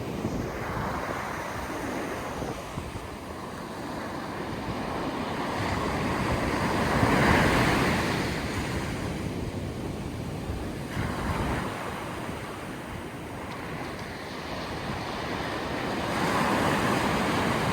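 Sea waves surging onto the shore and washing back, the surf swelling to a peak about seven seconds in and again near the end, with wind buffeting the microphone.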